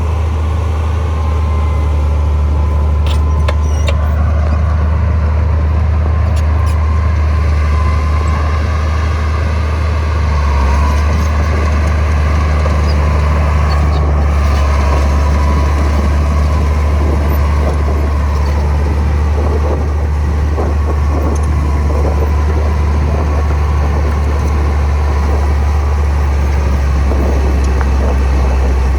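Heavy diesel engine of earthmoving machinery running steadily: a deep, constant drone with a faint high whine above it, and light rattling in the second half.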